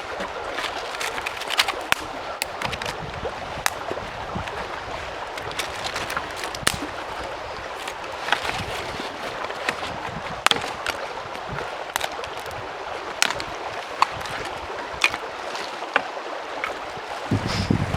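Small campfire crackling, with irregular sharp pops, over the steady rush of a mountain stream. Near the end, wind buffets the microphone.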